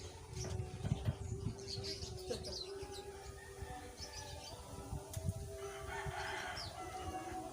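Bird calls: short high chirps, then a longer call near the end, over a steady low hum and irregular low thuds.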